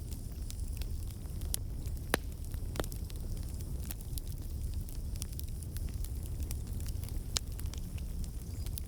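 Campfire burning: a steady low rumble of the flames with scattered sharp crackles and pops of the wood, two louder pops about two seconds in and near the end.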